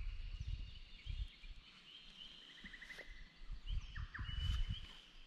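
Birds calling with thin, high chirps and a quick trill about three seconds in, over irregular low bumps and rumble.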